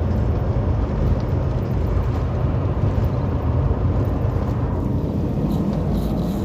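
Steady low drone of a semi truck's engine and road noise, heard from inside the cab while cruising on the highway.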